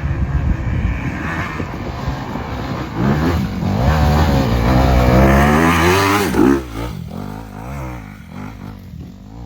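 Dirt bike engine revving hard on a hill climb: the engine note rises steadily in pitch and loudness from about three seconds in, peaks, then drops off sharply and fades as the throttle comes off.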